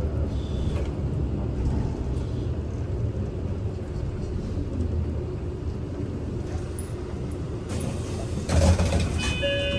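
Interior of a Kyoto City bus in motion: steady engine hum and road rumble. About 8.5 s in there is a brief thump or jolt. Just before the end come a few short, high steady tones.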